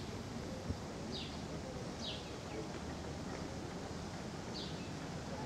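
Outdoor ambience with a bird giving short, high calls that each fall in pitch, three of them spaced irregularly, over a steady low background rumble. A single sharp knock sounds a little under a second in.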